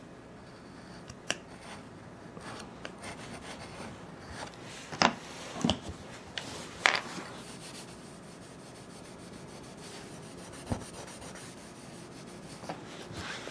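Hand tools rubbing and scraping on a wooden floor surface during a flooring repair, with scattered sharp taps and a few louder knocks.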